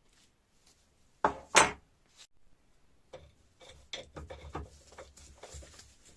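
Metal parts of a hydraulic jack being handled during disassembly: two loud knocks about a second and a half in, then a run of lighter clinks and knocks.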